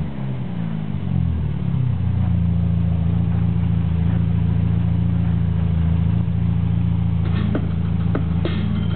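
Škoda Felicia engine coming down off a rev and settling into a steady idle about two seconds in. A few short clicks near the end.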